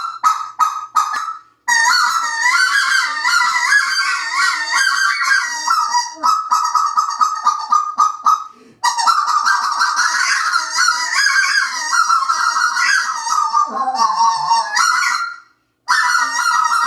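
A Pacific Calls Freebird half-inch specklebelly (white-fronted goose) call blown in fast runs of high, yelping goose notes. The runs come in three bursts with brief breaks between them.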